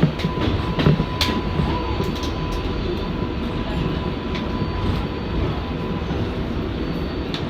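An R188 subway car of the 7 train running along the line, heard from inside the car: a steady rumble with irregular sharp clicks from the wheels on the rails. A faint steady whine runs through most of it and fades out about a second before the end.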